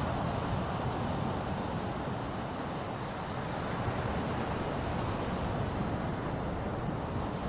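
Ocean waves breaking and washing steadily, a continuous even wash of surf.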